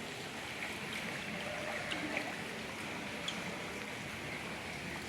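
Steady rushing noise of water, even and unbroken, with a few faint ticks over it.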